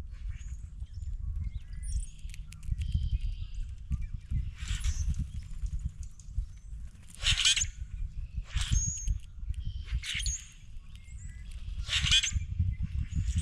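Birds calling at a feeding table: about five short, harsh calls in the last two-thirds, with a few faint chirps before them, over a steady low rumble.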